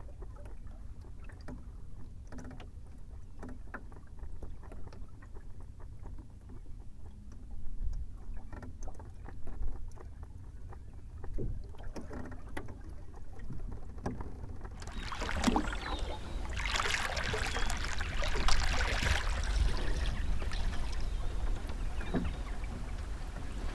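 Small sailing dinghy under way: water lapping and trickling at the hull with scattered light knocks and creaks, over a low wind rumble on the microphone. About two-thirds of the way in, a louder rushing hiss of water or wind comes in and holds.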